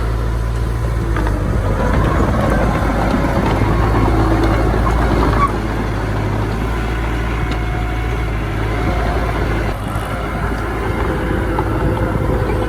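Diesel engine of heavy earthmoving machinery running with a steady low drone. The level drops a step about five and a half seconds in.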